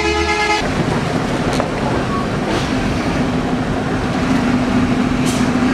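A truck horn sounds briefly and cuts off about half a second in. A truck engine then runs steadily.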